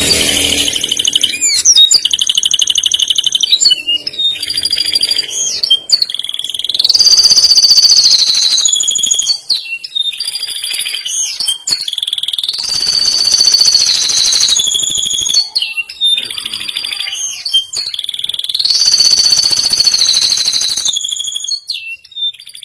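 Male domestic canary singing a long, fast song of high rolling trills and held notes, switching phrase every few seconds with brief breaks. The song tails off near the end.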